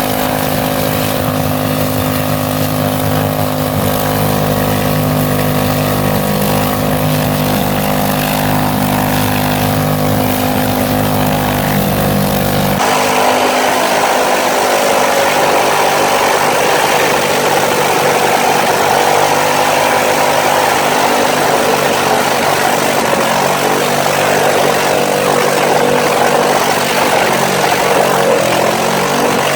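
Junk Chevy V8 engine running flat out at a steady high speed, its throttle zip-tied wide open with no load, in an upper-limit test run to destruction. About 13 seconds in the sound changes abruptly, losing its low note and turning harsher and noisier.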